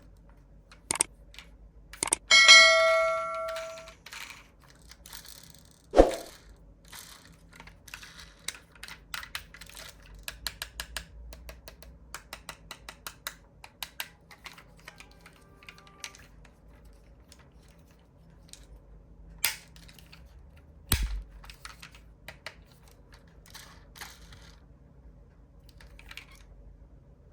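Small diecast model cars and their packaging being handled: a run of light clicks and taps, with a ringing metallic ding about two and a half seconds in and a few louder knocks.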